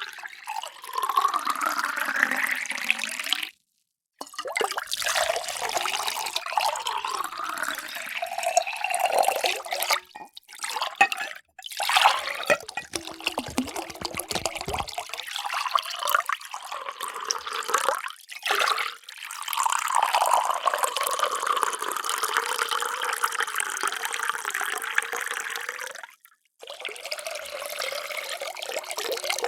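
Water being poured into containers in several separate pours with brief breaks between them; in the first pour the pitch rises steadily as the container fills.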